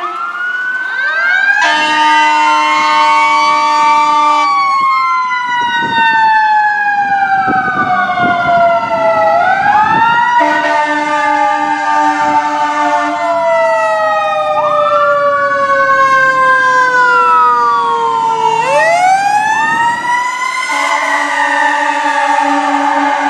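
Fire engine air horns blasting three times, each blast a few seconds long, over several wailing sirens whose pitch rises and falls slowly and overlaps.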